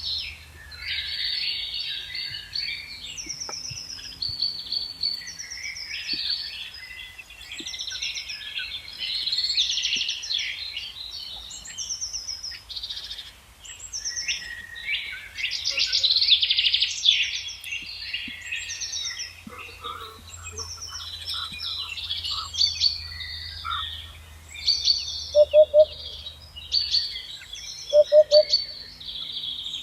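Several wild birds singing and chirping at once in dense overlapping trills and twitters, with a short high note that slurs downward repeating over them. Near the end a lower, louder call sounds a few times.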